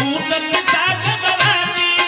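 Harmonium and tabla playing Indian folk music: sustained harmonium chords over a steady beat of deep tabla strokes.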